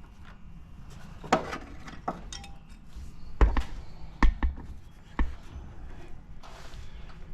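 About six sharp clicks and knocks of hands working spark plug wires onto a distributor cap, the loudest in the middle with a dull thump.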